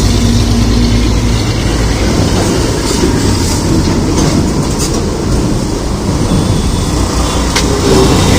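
Fully loaded Tata 1615c diesel truck on the move: a steady, loud low engine rumble with tyre and road noise.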